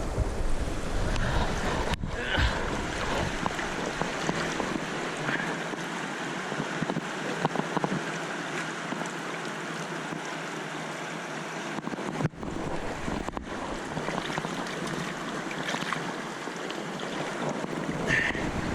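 Eagle River's current rushing steadily close to the microphone, with wind buffeting the microphone at times. There are brief breaks in the sound at about 2 and 12 seconds in.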